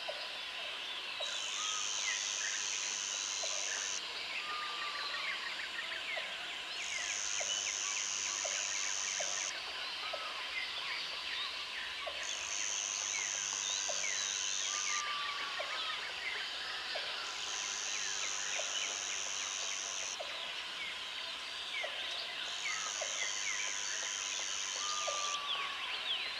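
Jungle ambience: a high insect buzz that switches on for about two and a half seconds and off for about two, over and over, above a dense chorus of chirping insects and birds with a few short falling whistles.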